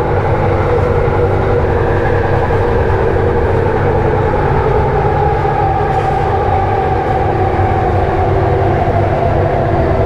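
Kelana Jaya line LRT train running, heard from inside the carriage: a steady rumble with a whine that slowly drops in pitch from about halfway through.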